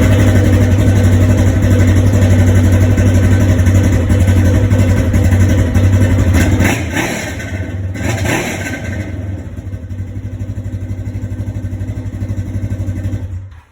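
Polaris RZR XP 4 1000's twin-cylinder engine running loud through a Thrush aftermarket muffler, with a deep exhaust note. It is at its loudest for the first six seconds or so, then settles lower with a couple of brief revs, and stops abruptly near the end.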